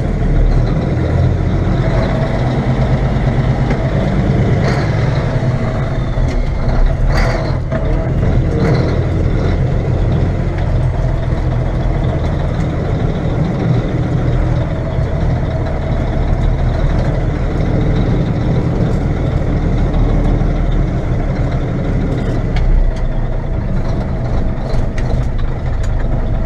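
Mack B61 dump truck's diesel engine running steadily as the truck drives slowly, a heavy low rumble with a brief sharp noise about seven seconds in.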